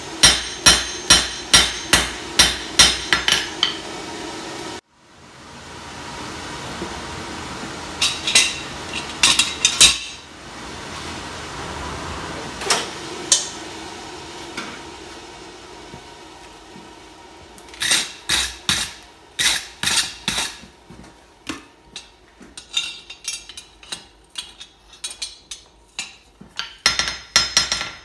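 Blacksmith's hammer striking steel on an anvil in quick runs of blows, about three to four a second, forging a knife blade. In the middle the blows thin out to a few scattered strikes over a steady rushing noise, then pick up again in fast runs.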